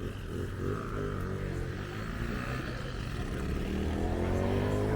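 A vehicle engine running and speeding up: its pitch rises steadily through the second half and it grows louder toward the end.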